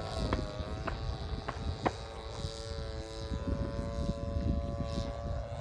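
Radio-control model airplane's engine and propeller drone steadily in flight, the pitch shifting slightly, with wind rumble on the microphone and a few sharp clicks.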